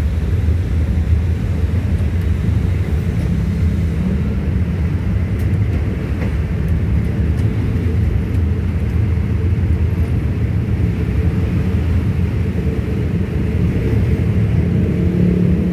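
Diesel-hauled passenger train rolling slowly along the track: a steady low rumble of engine and wheels on rail.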